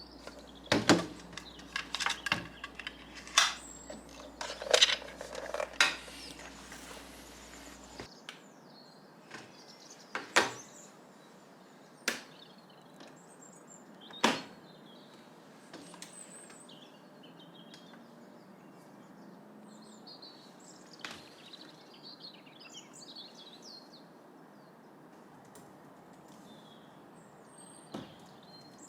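A quick run of clacks and knocks from hard objects being handled, stopping abruptly about eight seconds in. After that come a few scattered clicks and faint chirping from small birds.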